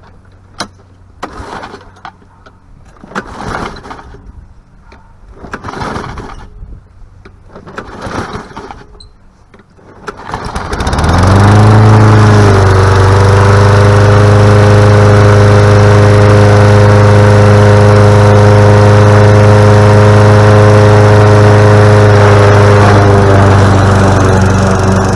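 A Craftsman push mower's small engine being started: several short knocks and rustles, then about ten seconds in it catches, revs up and settles into a loud, steady run. It starts readily on its newly replaced carburetor and fuel lines. Near the end the engine note drops slightly and gets a little quieter.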